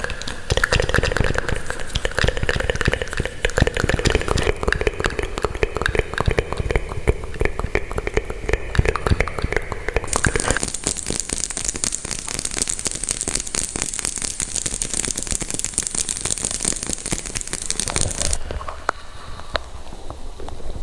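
Rapid, dense crackling and crinkling, with a change in character about ten seconds in and a quieter, sparser stretch near the end.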